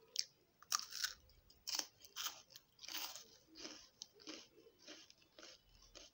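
A chocolate-coated wafer bar bitten off, then chewed: loud, crisp crunches in the first two seconds that settle into softer, steady chewing, about two chews a second.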